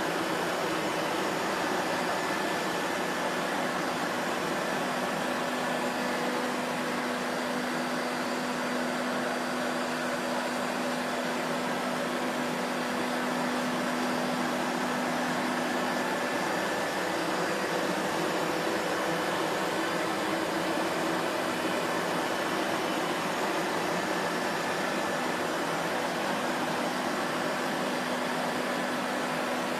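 Vacuum cleaner running steadily: an even rushing hiss of air with a faint motor hum, no change in pitch or level.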